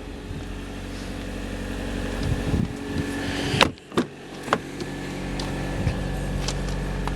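Chevy Volt's 1.4-litre four-cylinder petrol engine idling steadily in service mode, with a few sharp knocks or clicks around the middle.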